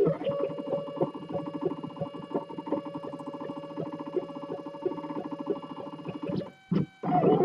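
3D printer's stepper motors running during a print: a whine at several steady pitches with rapid, even ticking as the axes move. It stops shortly before the end.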